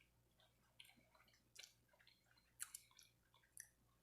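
Faint chewing with soft, scattered smacking and clicking mouth sounds of someone eating.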